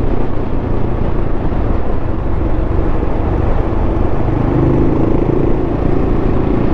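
Large single-cylinder dual-sport motorcycle engine running steadily as the bike rides along.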